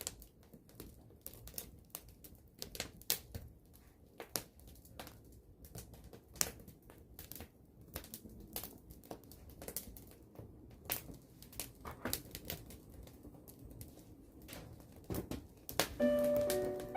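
Scattered light clicks and taps at irregular intervals, a few each second. Music with steady keyboard-like notes starts near the end.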